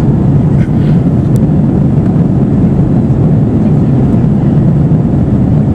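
Steady low cabin rumble of an Airbus A320-232 airliner, its IAE V2500 engines running evenly, heard from inside the passenger cabin.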